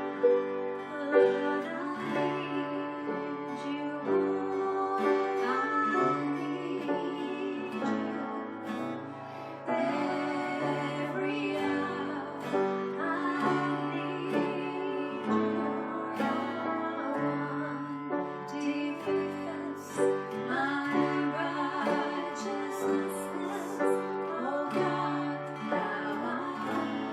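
Worship music: a chorus played on acoustic guitar and keyboard, with a woman singing.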